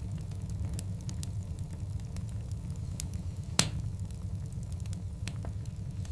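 Wood fire of large burning logs, with a steady low rumble and scattered small crackles. One sharp, loud pop a little past halfway.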